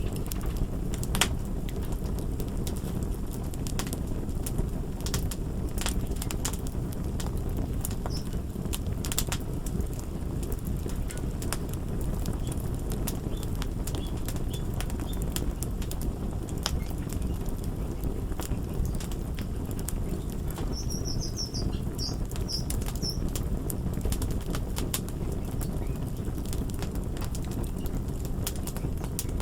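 Wood fire crackling: a steady low rumble with irregular sharp pops and snaps scattered through it. A few faint high chirps come in a little past the middle.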